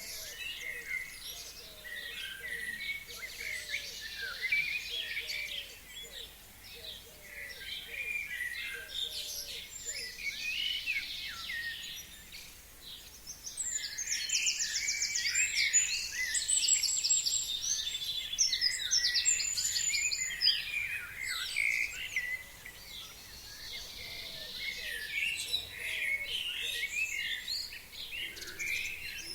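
A chorus of forest songbirds singing and calling, many overlapping short chirps and whistles. About halfway through there are bright, rapid trills. In the first part a lower, short call repeats about once a second.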